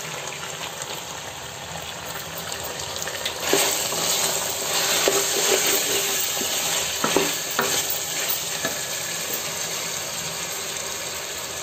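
Chicken pieces sizzling as they fry in oil in a pot, with a steady crackle. From about three and a half seconds in, a wooden spoon stirs and scrapes through the chicken, and the sizzling grows louder.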